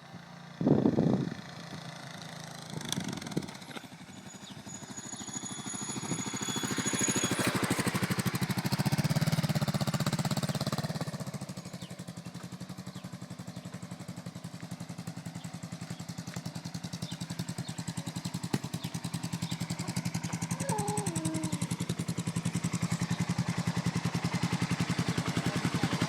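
Suzuki Savage 650's single-cylinder four-stroke engine running, growing louder between about six and eleven seconds in, then settling into a steady, even idle.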